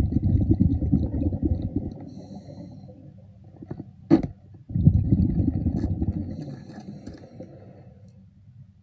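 Underwater rumble of a diver's exhaled bubbles, in two long surges a few seconds apart, with a sharp click between them.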